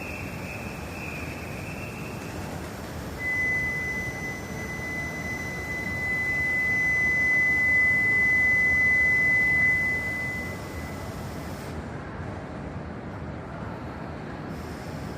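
Tohoku Shinkansen train noise at the platform, with a steady high-pitched tone held for about seven seconds from around three seconds in, while the train noise swells. A fainter, slightly higher tone fades out in the first two seconds.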